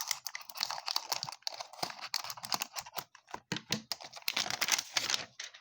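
Rapid, irregular crinkling, crackling and tearing as the plastic wrap on a box of baseball cards is ripped open by hand.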